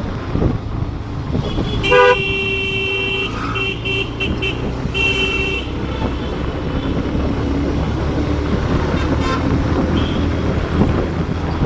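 A vehicle horn honking: one long blast about two seconds in, then a few short toots and another short blast, over steady low road and engine noise.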